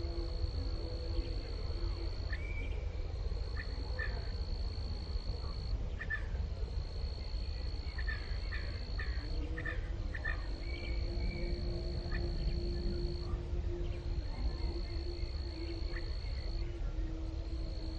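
Outdoor nature ambience: an insect trilling on one high, steady note in stretches of two to three seconds with short breaks, over scattered short bird chirps and a steady low rumble.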